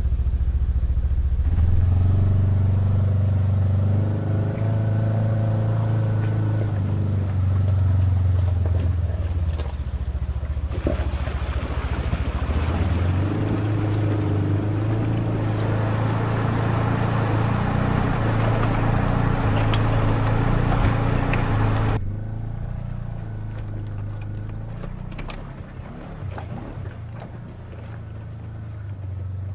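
An engine running for the whole stretch, with a rougher, noisier middle section, then dropping to a lower level about two-thirds of the way through.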